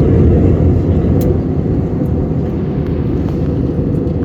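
Steady cabin noise inside an Airbus A321neo in flight: a low, dense rumble of engines and airflow, easing slightly about a second and a half in.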